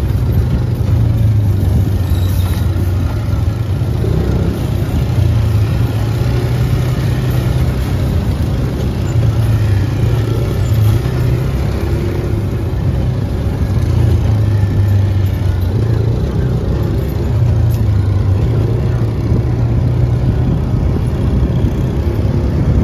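A UTV's engine running as the vehicle drives along, a steady low drone that swells and eases slightly, with road and wind noise.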